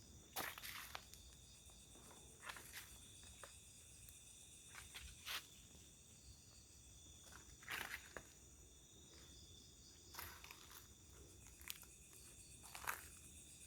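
Footsteps on the ground, one about every two to three seconds, over a faint steady chorus of night insects such as crickets.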